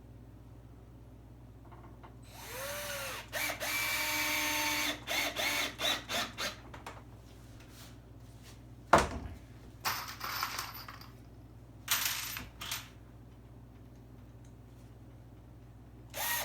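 Power drill driving deck screws into scrap wood in several short runs, its motor whine rising and falling as it speeds up and slows. A single sharp knock comes about nine seconds in.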